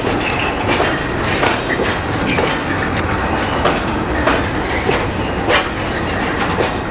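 Freight train of loaded Falns hopper wagons rolling past, a steady rumble of wheels on rail broken by irregular sharp knocks and clanks as the wheels cross rail joints.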